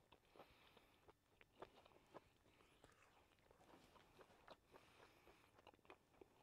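Near silence, with a few faint, scattered clicks of a person chewing a bite of smoked pork belly.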